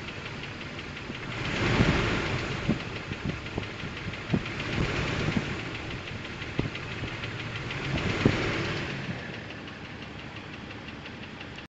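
2000 Jeep Wrangler TJ Sport's 4.0-litre straight-six running, with sharp clicks at uneven intervals, the clicking noise whose cause is not yet known. The engine sound swells louder three times.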